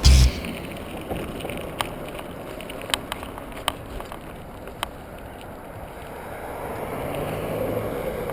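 Bicycle riding heard through a helmet-mounted camera: steady wind and rolling noise with a heavy thump right at the start and a few sharp clicks and rattles in the middle, the wind rising again near the end.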